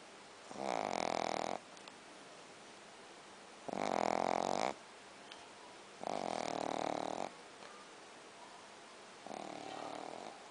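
A Shih Tzu dog snoring: four snores, each about a second long and about three seconds apart, the last one softer.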